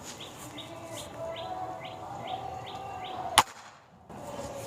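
A bird chirps in a quick, even series of short falling notes, about two and a half a second. About three and a half seconds in, the NX100 air rifle gives a single loud, sharp crack.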